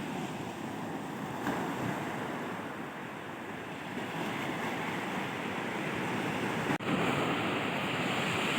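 Sea surf washing onto a beach, a steady rushing with wind buffeting the microphone; it cuts out for an instant near the end, then carries on.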